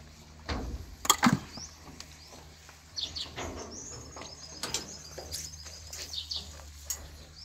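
Birds chirping in short rising calls over a low steady hum, with two sharp knocks about a second in.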